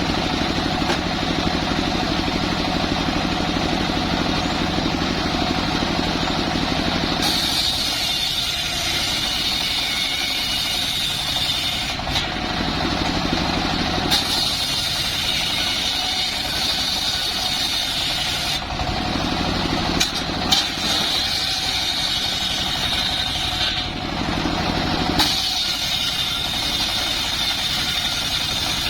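Engine-powered wood saw running low for the first several seconds, then going into repeated high-pitched stretches of a few seconds each, with brief drops between them, as it cuts timber.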